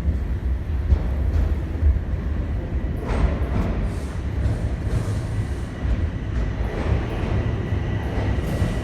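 Subway train rumbling low and steady at the station, swelling twice, with a thin steady high whine that sets in near the end.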